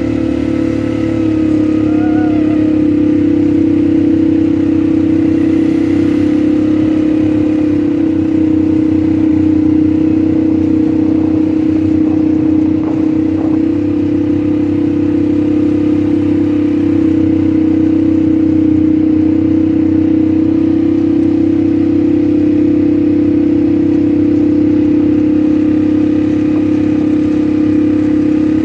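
ATV engine running steadily at a nearly constant pitch during a ride.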